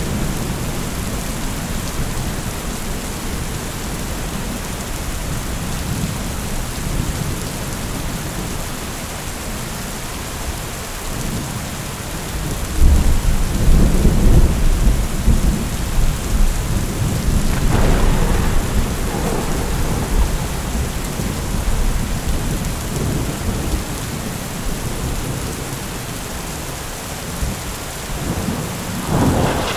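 Heavy rain falling steadily in a thunderstorm. About halfway through, a long low roll of thunder rumbles in and fades over several seconds.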